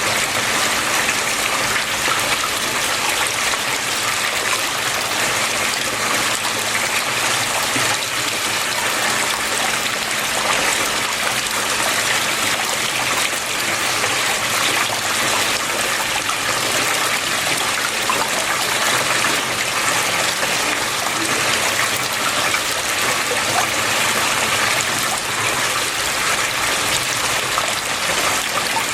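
Water flowing steadily, an even, unbroken hiss that keeps a constant level throughout.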